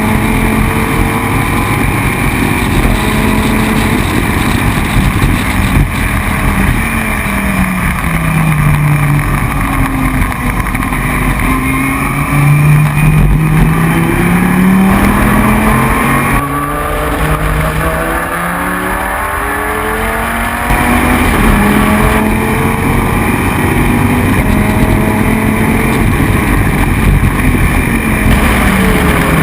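Dodge Viper V10 race engine at racing pace. Revs fall and climb as it brakes, downshifts and accelerates. About halfway through there is a sudden lift, then a run of quick stepped upshifts before it settles at a steadier pitch.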